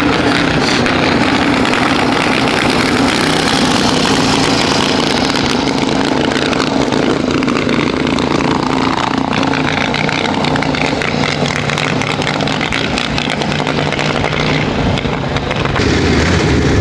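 Motorcycle engines running, a steady mechanical drone with a shifting engine note.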